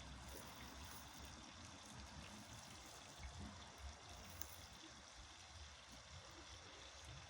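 Near silence: faint, steady outdoor background hiss with a low rumble underneath and a few small ticks.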